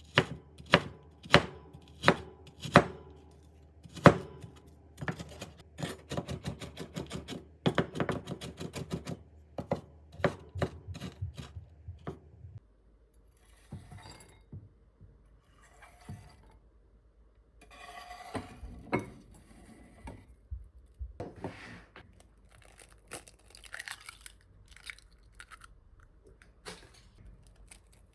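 Knife chopping on a cutting board: single sharp strokes about one and a half a second, then quicker rapid chopping that stops about twelve seconds in. After that come softer, scattered kitchen clicks and rustles.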